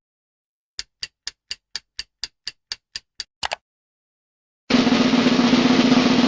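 Edited sound effects: a run of evenly spaced sharp ticks, about four a second, ending in a quick double tick; then, after a short gap, a loud continuous drum roll starts a little past the middle.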